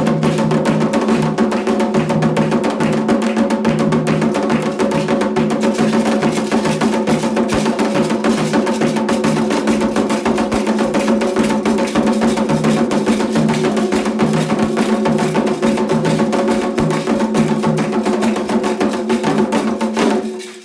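Candomblé ritual drumming: atabaque hand drums with a struck bell, playing a dense, fast rhythm that stops abruptly near the end.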